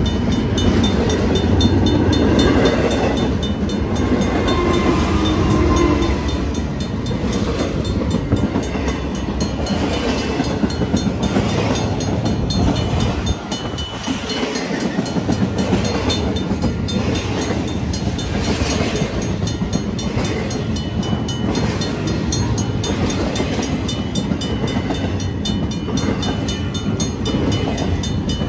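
BNSF intermodal freight train's empty well cars and spine cars rolling past close by, a steady rumble and clatter of steel wheels on the rails.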